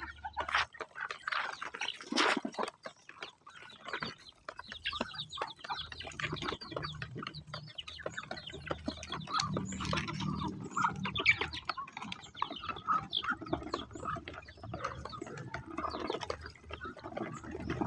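Chickens clucking, with many short calls and clicks.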